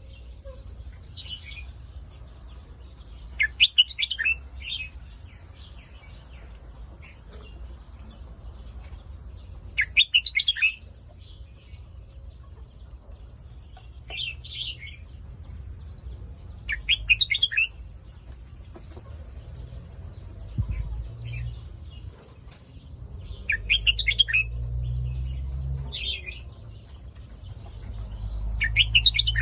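Red-whiskered bulbul singing short, quick warbling phrases, about eight of them several seconds apart. A low rumble underneath grows louder in the last third.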